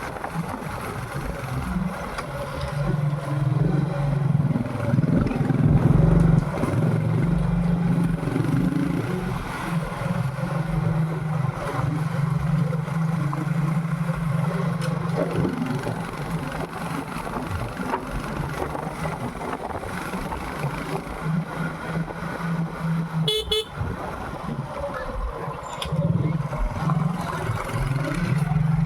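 Motorcycle engine running under way, its pitch rising and falling with the throttle, with wind rumble on the microphone. A short horn toot sounds about two-thirds of the way through.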